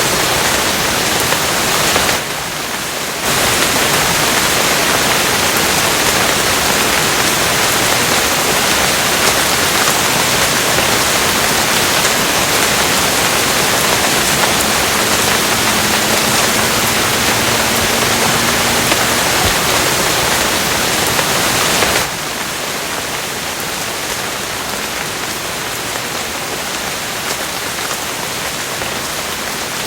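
Steady heavy rain, a dense even hiss, that briefly dips about two seconds in and steps down to a lighter, thinner rain about twenty-two seconds in.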